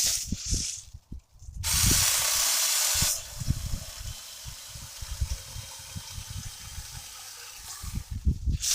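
Saker 20V cordless mini chainsaw cutting through branch wood. A loud hiss begins suddenly about a second and a half in and cuts off about a second and a half later, then the saw runs on more quietly until another loud burst near the end. Low thumps on the microphone run underneath.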